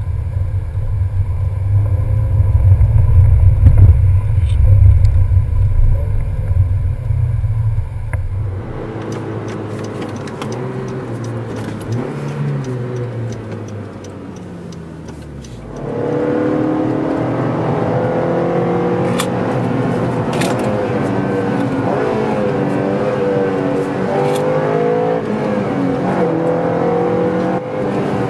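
Honda Civic Si's 2.4-litre four-cylinder engine heard from inside the cabin while driving: a loud low drone at first, then after a sudden change the engine note sinks as the car slows, and from about halfway in the revs rise and fall repeatedly.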